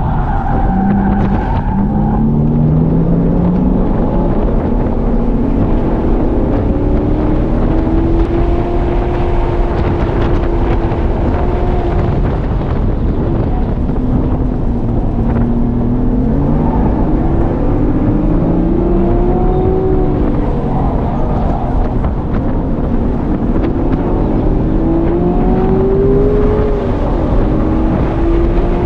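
Sports car engine heard from inside the cabin at track pace, its note climbing as the car accelerates and dropping at each gear change or braking, several times over. Steady heavy wind and road noise run underneath.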